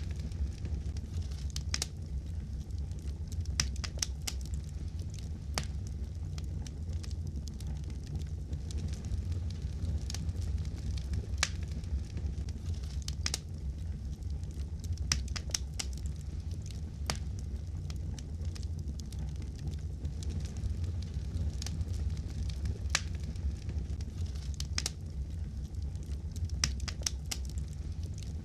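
Wood fire in a fireplace crackling, with irregular sharp pops and snaps over a steady low rumble of flame.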